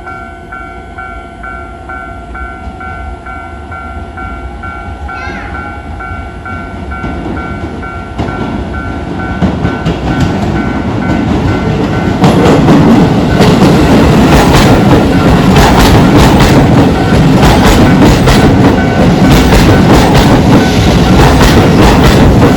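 Japanese level-crossing warning bell ringing in its regular low-tone pattern as a train approaches, the rumble building; about twelve seconds in the train reaches the crossing and runs past loudly, wheels clattering over the rail joints.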